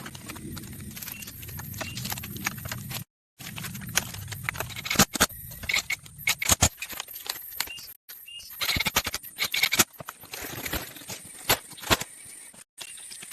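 A run of irregular knocks, clicks and scrapes, like things being handled and struck, broken by brief moments of dead silence.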